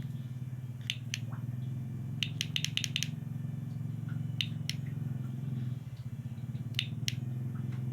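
Homemade oil-cooled inverter transformer for electric fishing humming steadily at a low pitch. Sharp clicks come now and then, with a quick run of them a little over two seconds in.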